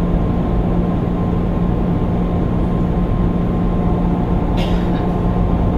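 Inside a JR East 205 series 600 subseries electric train car: steady mechanical hum with a low note and a fainter higher tone. A short hiss comes about four and a half seconds in.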